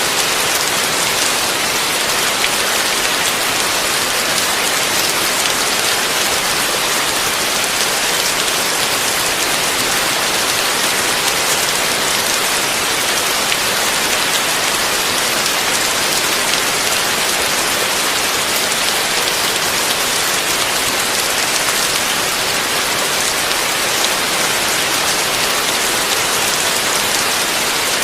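Heavy, steady rain pattering densely on a surface, an even hiss of countless drops with no thunder.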